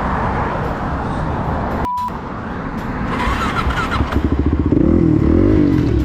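Steady rushing road noise, broken by a cut with a short beep about two seconds in; then a motorcycle engine revving up and down, loudest near the end.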